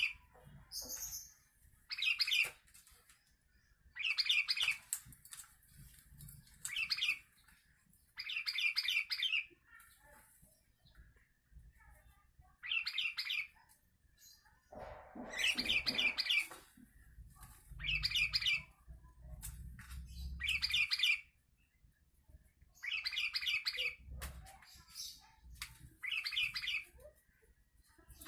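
Sooty-headed bulbul (kutilang) singing: short chirping phrases repeated roughly every two seconds.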